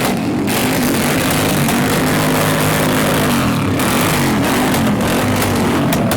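Two V8 engines, a Mustang carrying a Mercedes E63 AMG V8 and a V8 Mercedes, being revved hard together through loud exhausts. The revs rise and fall over and over, with a few sharp cracks from the exhausts.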